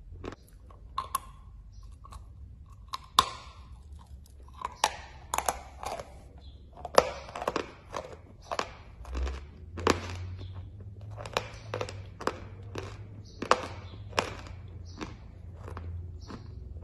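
Crunching and chewing of a bitten chalk tile: a run of sharp, irregular crunches, about one or two a second.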